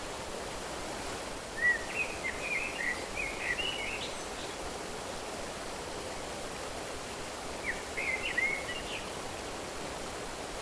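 A songbird singing two short phrases of quick chirping, twittering notes, one about a second and a half in and one about eight seconds in, over a steady rushing background noise.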